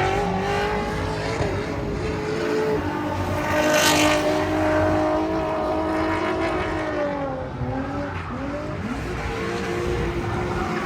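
Car engine held at high revs, its pitch steady and then wavering and dipping, with a brief hiss about four seconds in.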